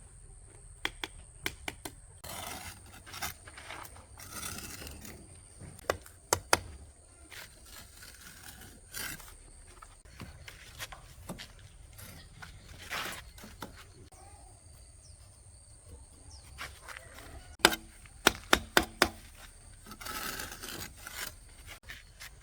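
Hands-on work with tools and materials: intermittent scraping and rubbing with scattered sharp knocks, including a quick run of about five knocks a little after two-thirds of the way through.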